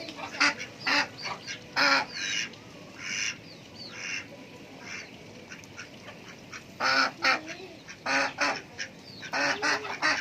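Domestic ducks quacking: repeated short, harsh calls in clusters, with a lull of a few seconds in the middle.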